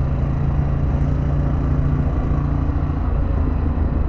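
Harley-Davidson Pan America's Revolution Max 1250 V-twin engine running steadily while riding, with road and wind noise over it.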